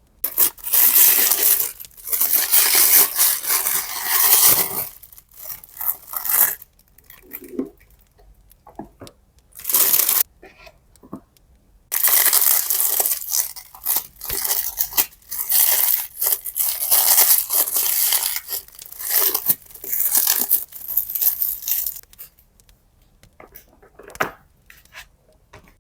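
Tearing and crinkling of paper craft materials, in long stretches of several seconds with short pauses between them.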